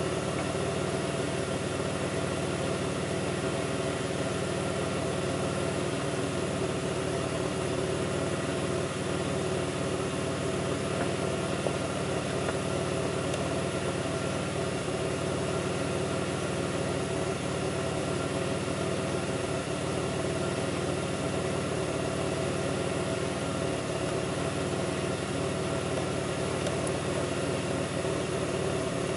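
2002 Pontiac Grand Prix's 3800 V6 engine idling steadily. The engine has a rough idle that bogs down, with a faint intermittent thumping that the owner is trying to diagnose.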